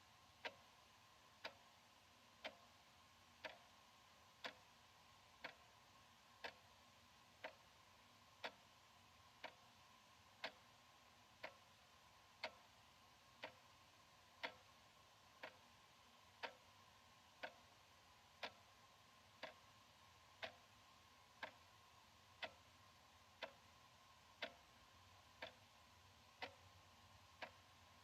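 Analog wall clock ticking, one sharp tick each second, evenly spaced, over a faint steady hum.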